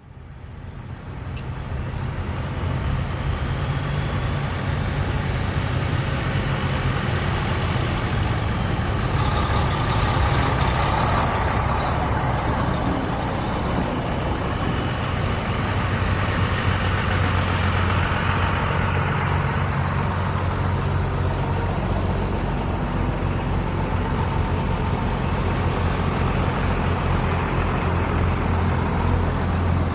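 Truck engine running, a steady low hum with a broad mid-range noise that swells in the middle and eases off later; the sound fades in over the first few seconds.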